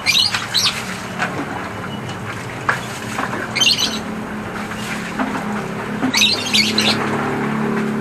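Birds calling in short, high squawking bursts every few seconds over a steady low hum.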